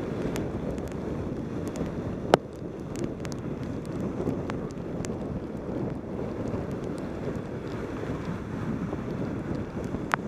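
Wind buffeting the microphone of a helmet-mounted action camera on a fast bicycle descent, a steady low rushing, with scattered sharp clicks, one loud about two seconds in and another near the end.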